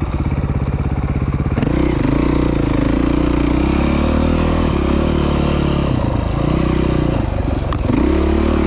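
Off-road vehicle engine heard close up from the rider's position: a slow, even putter at low revs, then the throttle opens about a second and a half in and it runs at higher revs, easing off briefly a few times and picking up again near the end.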